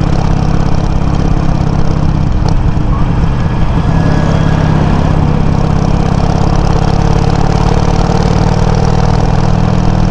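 Harley-Davidson Sportster 883's air-cooled V-twin running steadily at low revs through Customer exhaust tips with low baffles, recorded from a microphone on the bike.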